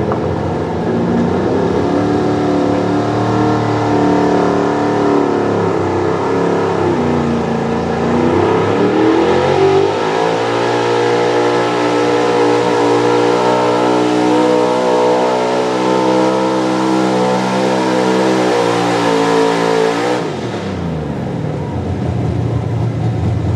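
Pro Stock 4x4 pulling truck's engine running under full throttle on a pull. The pitch climbs about a third of the way in, holds high and steady for about ten seconds, then drops off sharply a few seconds before the end as the driver lets off.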